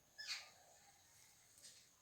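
A bird giving short calls that drop in pitch: a loud one near the start and a fainter one about a second and a half in, over a faint steady high tone.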